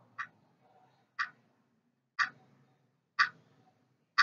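A clock ticking once a second, five sharp ticks in a row: a quiz-show thinking-time timer sound effect between the question and the answer.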